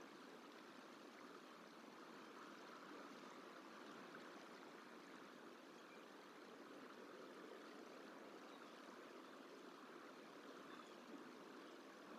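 Faint, steady rushing noise of outdoor running water, with no calls or knocks standing out.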